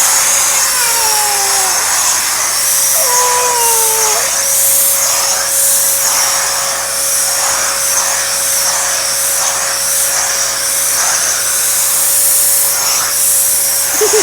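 Dyson Animal vacuum cleaner running steadily, a high hiss over a steady whine, its nozzle drawn through a cat's coat so the hiss swells and eases about once a second.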